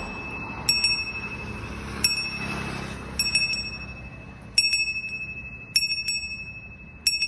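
Hanging metal bell struck about six times, roughly a second apart, each strike leaving a high ringing tone that fades away.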